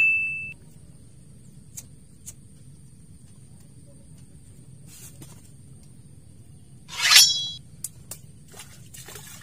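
A short electronic ding fading out at the very start. About seven seconds in comes a loud half-second swish as a fishing rod is swept up to strike a bite, followed by a few light clicks.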